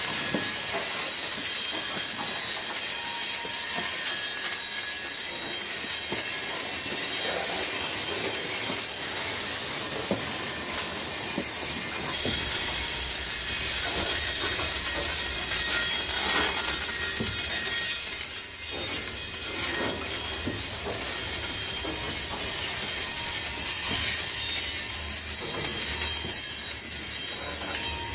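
Ore train's freight cars rolling past: a steady hiss of steel wheels on rail with faint scattered clacks, and a low rumble that joins about twelve seconds in.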